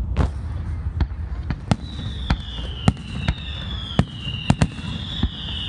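Fireworks going off: a string of sharp bangs and pops at uneven intervals. From about two seconds in, a high whistle slides slowly down in pitch over them.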